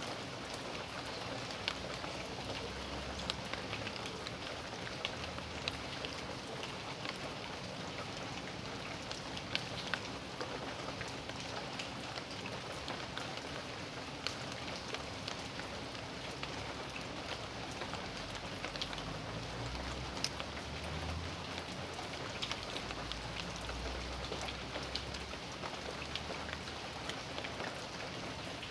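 Steady rain: an even hiss with many scattered sharp taps of drops striking surfaces. A low rumble swells under it for several seconds about two-thirds of the way through.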